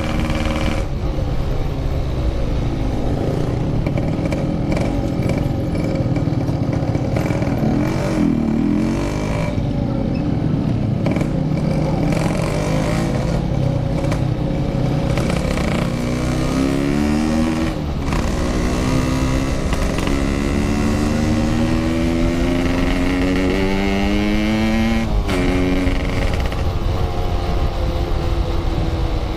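Motorcycle engine under way, running steadily at first, then pulling up in pitch in two long rises that each end in a sudden drop at a gear change, about 18 and 25 seconds in, over a low wind rumble.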